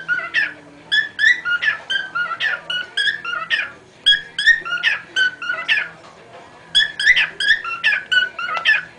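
Cockatiel singing: phrases of quick whistled notes with sharp pitch slides, broken by short pauses.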